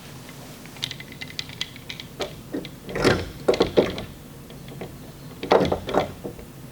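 Metal clicks and clunks of a K-beam bridge lifter (paintless dent repair pulling tool) being handled and its adapter and articulating feet fitted against the liftgate panel. Light scattered clicks begin about a second in, with two heavier bursts of clattering knocks around three seconds and five and a half seconds in.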